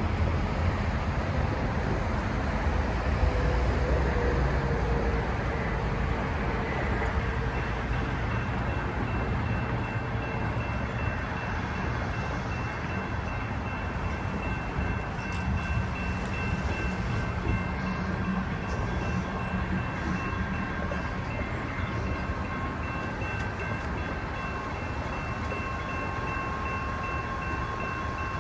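A train passes a grade crossing with a steady rumble that slowly eases, while the crossing's GS Type 1 bell rings. Steady high tones come in about seven seconds in and sit over the rumble.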